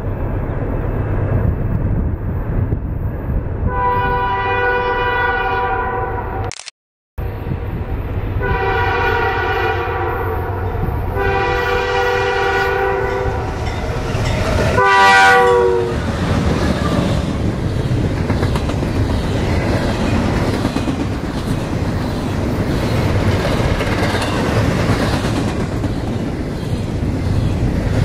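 Locomotive air horn sounding a multi-note chord in three long blasts and a short one, the pitch falling on the last as the locomotive passes. The sound cuts out for a moment after the first blast. The steady rumble and clatter of the train rolling by follows.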